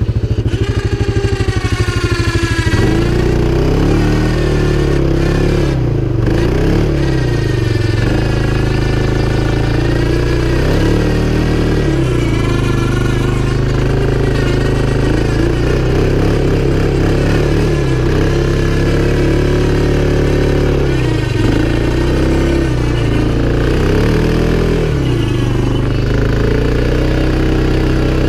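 CFMOTO 500 ATV's single-cylinder four-stroke engine running under load, its pitch rising and falling again and again as the throttle is opened and eased off.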